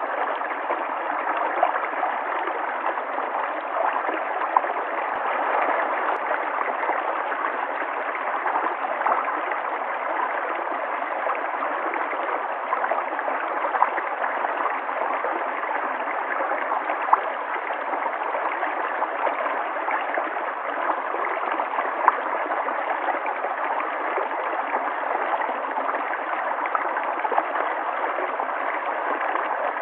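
River water flowing steadily, a continuous rush with small gurgles and a few brief louder splashes.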